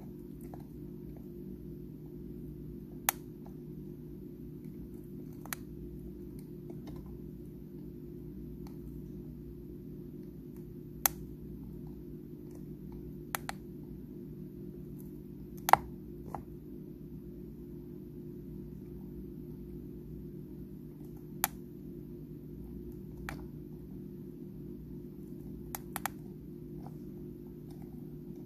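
Sharp, irregular single clicks, about a dozen spread out with the loudest in the middle, from a pet crab picking at and crunching dried shrimp. Under them is a steady low hum.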